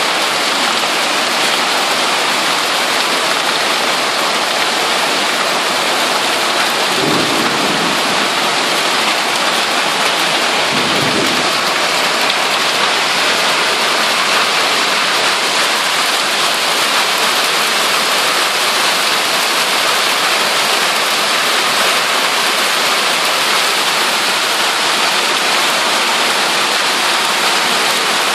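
Heavy rain pelting the street and pavement steadily, with water pouring off a roof edge onto the ground. Two brief low rumbles come about seven and eleven seconds in.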